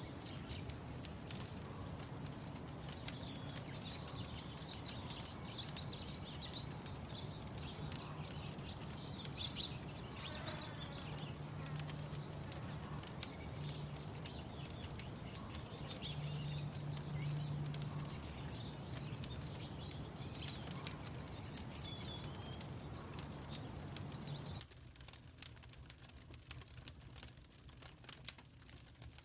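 Lakeside morning ambience: birds chirping over a steady low hum, with scattered sharp crackles like a wood fire. About 25 seconds in the sound cuts abruptly to a quieter stretch of crackling alone.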